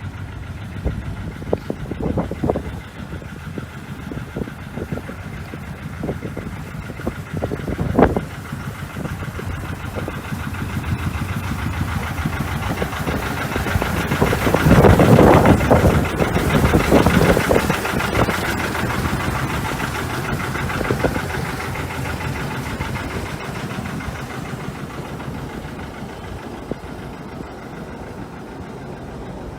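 Narrow-gauge locomotive engine running, with scattered knocks and clanks in the first several seconds. It swells to its loudest about halfway through, then slowly fades away.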